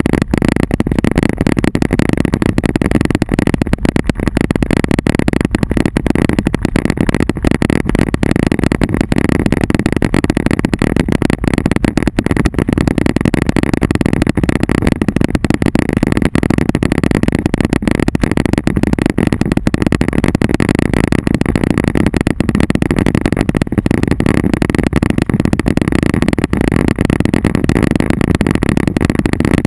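Hail drumming on a vehicle's roof and body, heard from inside the cabin: a loud, dense, unbroken clatter of impacts.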